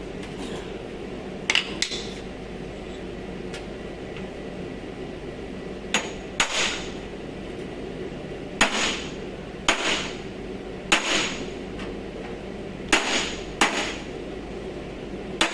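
Hammer blows on metal body panel, about ten sharp strikes at irregular intervals, some in quick pairs, each with a short ring, over a steady low hum.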